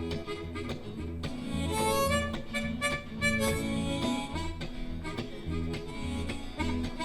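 Live electric blues band playing an instrumental break: a harmonica lead over a pulsing bass line and steady drums.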